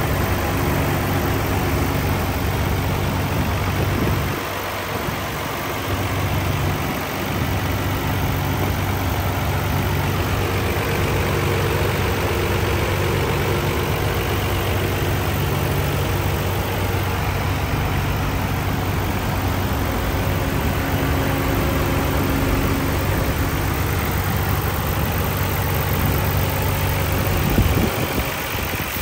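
A Nissan Skyline GT-R R34 V-spec II's RB26DETT twin-turbo straight-six idling steadily, heard at the open engine bay.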